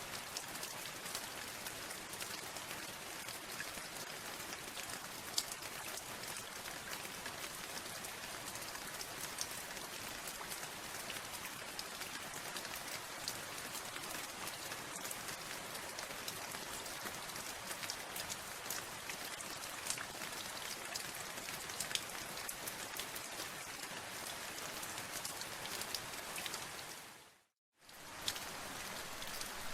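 Steady rain with many individual drops ticking on a surface. Near the end the sound briefly fades to silence and comes straight back.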